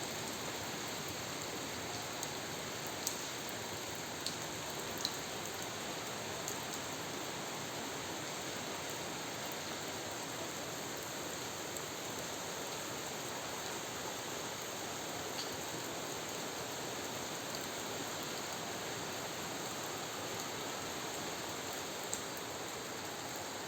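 Steady rain falling, an even hiss with a few sharper ticks of single drops striking something, several of them in the first seven seconds and one more near the end.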